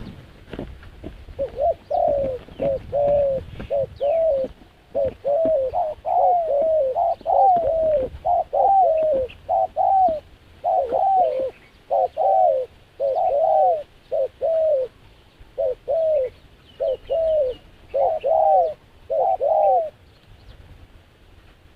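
A dove cooing in a long, rapid run of short coos, each rising and falling in pitch, about two a second. The run starts about a second and a half in and stops shortly before the end.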